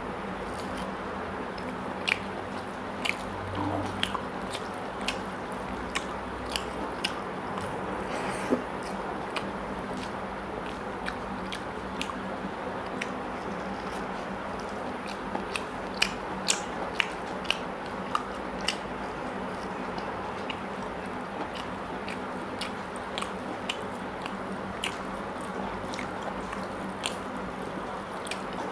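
A person eating rice and mutton curry by hand, chewing and smacking wetly with frequent irregular sharp mouth clicks.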